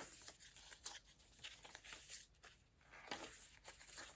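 Faint rustling and crinkling of paper as the pages of a handmade junk journal are turned and handled, in several soft, short bursts.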